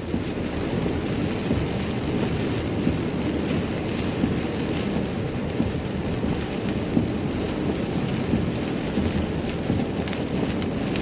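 Steady heavy rain falling on a vehicle, with a low rumbling noise underneath and a few scattered sharp drop ticks, from the rain bands wrapping around a rotating thunderstorm's mesocyclone.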